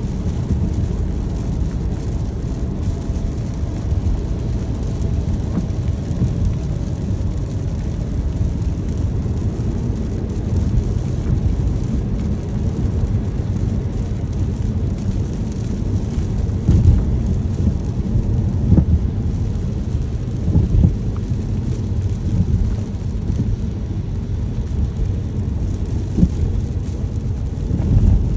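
A car driving in the rain: a steady low rumble of the car and road under a hiss of rain, with a few brief louder thumps in the second half.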